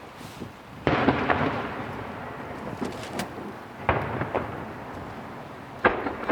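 Starmine fireworks barrage: shells burst with loud booms about a second in, near four seconds and near six seconds, with smaller pops between them. The first burst is followed by a spell of crackling that dies away.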